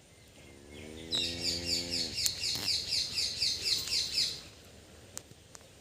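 A bird calling outdoors: a fast, even run of high chirps, about six a second, lasting around three seconds. A low steady tone sounds under the first second of it.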